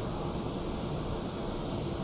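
Steady hum and hiss of a stationary electric commuter train's auxiliary equipment running as it stands at the platform, with a faint constant tone.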